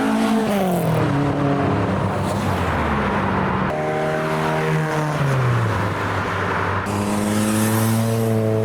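Classic Ford Escorts driving past one after another. Their engine notes drop in pitch as each goes by: once about a second in and again around five seconds. Near the end one engine holds a steady note.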